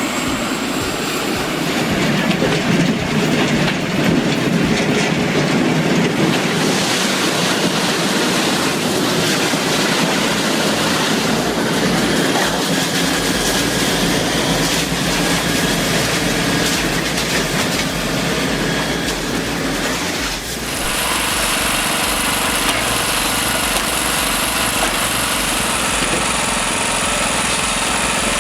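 Rotary debarker running, with a steady rumbling, clattering noise of machinery and wood churning. About twenty seconds in, the sound changes abruptly to a different steady engine-driven machine with a high whine.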